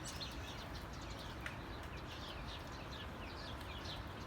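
Small birds chirping: many short, quick, falling chirp notes repeating over a steady background hiss.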